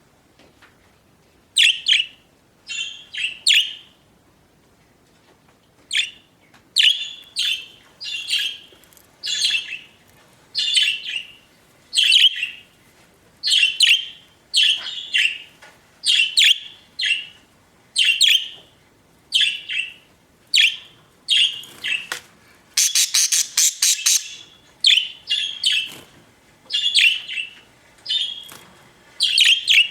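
Pet budgerigars chirping: short high calls repeated about once a second, with a brief pause after the first few and a longer, denser chattering stretch about two-thirds of the way through.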